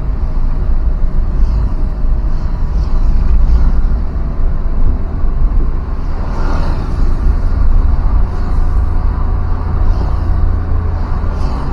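A road vehicle on the move: steady running and road noise with a deep, continuous rumble.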